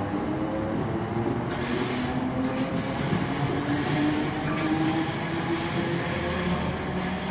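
A train running along the rails, its wheels setting up a high steady squeal from about a second and a half in, over a wavering low drive hum, with a few clacks of wheels over rail joints.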